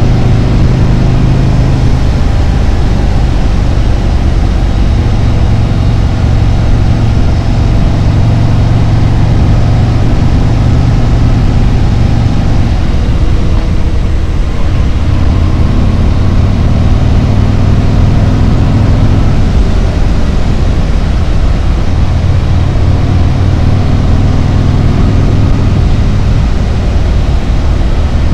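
Harley-Davidson Road Glide's V-twin engine running on the road, with wind and road noise. Its low note shifts in pitch a few times as the throttle changes.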